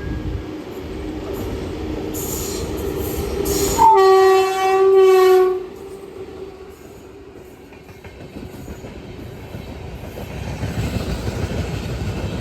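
A running Indian Railways electric train, its rumble giving way to a single horn blast about four seconds in that lasts roughly two seconds and is the loudest sound. The running noise then drops and builds again toward the end.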